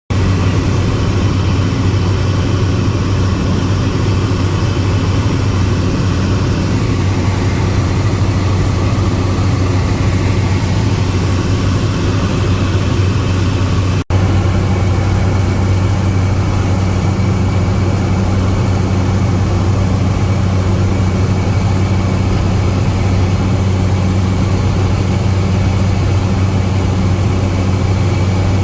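Helicopter in flight heard from inside the cabin: a loud, steady drone of turbine and rotor with a deep constant hum and a wash of noise, broken only by a momentary dropout about halfway through.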